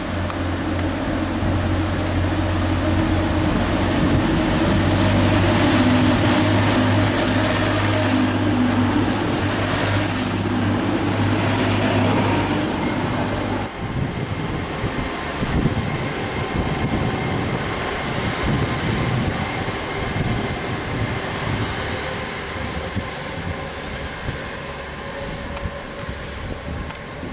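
A train running through the station, a steady low drone with a high whine that rises and holds. About halfway through the sound changes suddenly to a quieter rumble.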